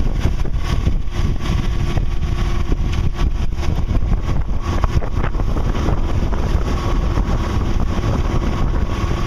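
Wind buffeting the microphone over the steady drone of a sailboat's inboard engine, motoring with the sails down at about four knots.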